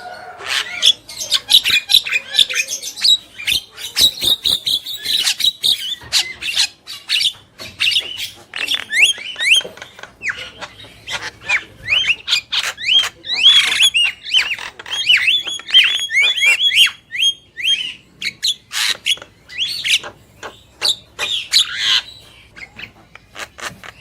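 Javan mynas, male and female, calling vigorously: a busy stream of harsh squawks, sharp clicks and chattering notes, with a quick run of short sweeping whistles in the middle.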